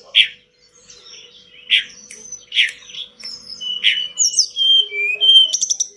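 Tledekan gunung songbird singing: sharp chirps repeated every second or so, mixed with short clear whistled notes, ending in a quick rattling trill just before the end.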